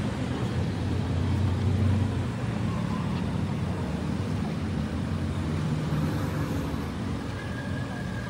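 Steady low rumble of motor-vehicle noise, like traffic or a car running.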